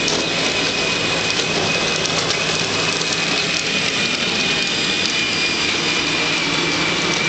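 Small tractor running steadily with a constant motor hum and a thin, steady high whine.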